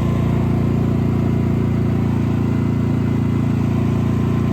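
Gas-and-propane generator engine running steadily at constant speed, powering the freezers through a power outage.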